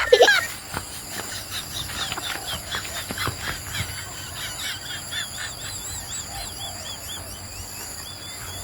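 Birds chirping: many short high chirps, with a run of quick repeated arching chirps midway.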